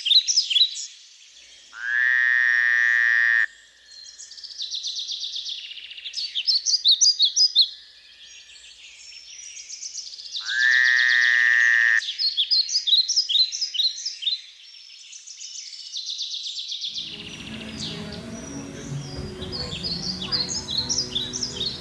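Frogs calling: bursts of rapid, high chirping notes, with two long, loud calls of about a second and a half each, near 2 s and again near 11 s. From about 17 s a low, rumbling noise joins under the calls.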